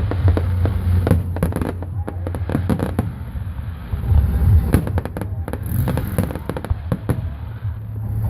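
Aerial fireworks going off in a rapid, continuous series of bangs and booms, with crackling between them over a low rumble.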